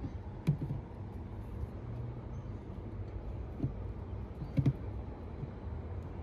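A few short knocks and clatters as the pipes and fan are handled and set into the holes cut in a plastic esky lid, over a steady low rumble. The loudest knocks come just before the five-second mark.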